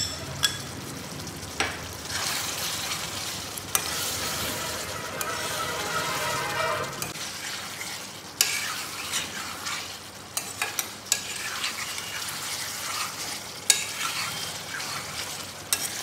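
Mutton in thick masala sizzling in a metal pot being roasted on high flame, while a metal spoon stirs and scrapes it. Sharp clicks of the spoon against the pot come every few seconds. The sizzle is stronger in the first half.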